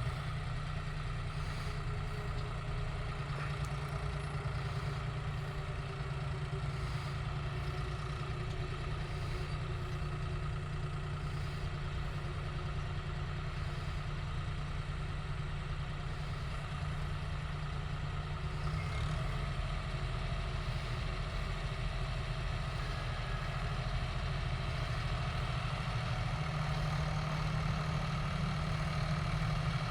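John Deere 5210 GearPro tractor's three-cylinder diesel engine running steadily under load while working an 8-foot super seeder. It grows a little louder about two-thirds of the way through.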